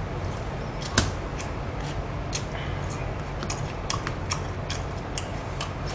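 A person eating: irregular short clicks and smacks of chewing, with a sharper click about a second in, over a steady low hum.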